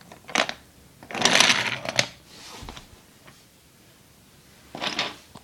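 Rustling and scraping handling noise with a few sharp clicks: a loud burst of scraping about a second in that ends in a click, and another short one near the end.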